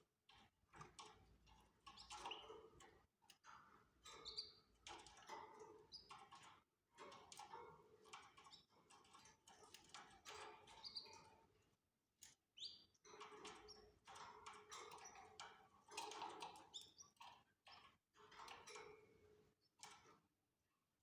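Canaries chirping faintly in short, scattered calls, with small clicks between them.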